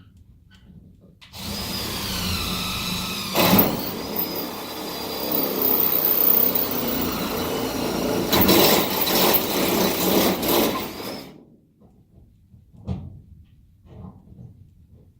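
Cordless drill boring into the bus floor, running for about ten seconds with a high whine that wavers in pitch, then stopping; a few faint knocks follow.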